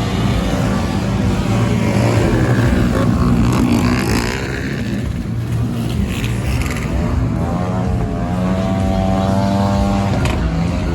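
Motorcycle engines running, their pitch rising and falling now and then as they rev.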